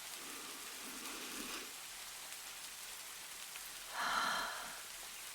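Steady rain pattering throughout. Over it, a woman takes a slow deep breath in, and then, about four seconds in, she breathes out audibly.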